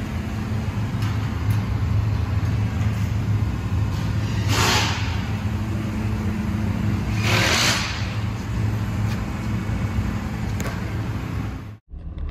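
A vehicle engine running steadily with a low hum, with two short hissing whooshes about three seconds apart. The sound cuts off abruptly near the end.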